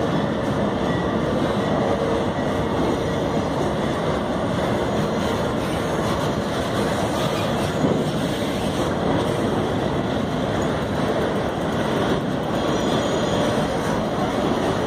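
Empty ore freight train rolling past: a steady rumble of steel wheels on rail with a sharp clank about eight seconds in.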